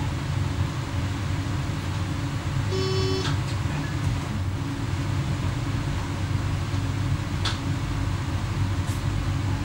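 Steady low running drone in the cab of an X11 electric multiple unit under way. A short single beep sounds about three seconds in, and a couple of faint clicks come later.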